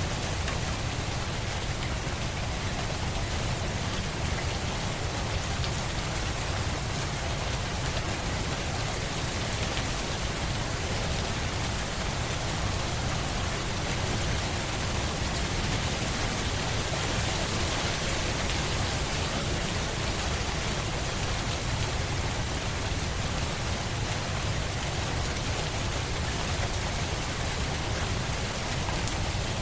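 Steady rain falling on a surface, an even hiss without distinct drops or thunder.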